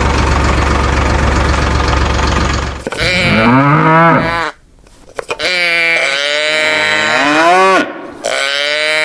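Cattle mooing: three long lowing calls, each rising and falling in pitch. Before them comes a loud, steady rushing noise with a deep hum that stops about three seconds in.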